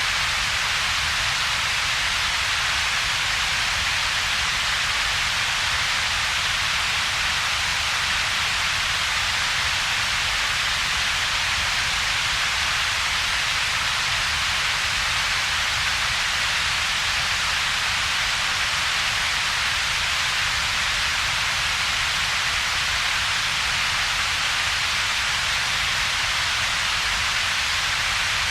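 Steady synthetic double-peaked noise: a bright hiss centred around 2 to 4 kHz over a separate low rumble, with a thin dip in between. It does not change at all.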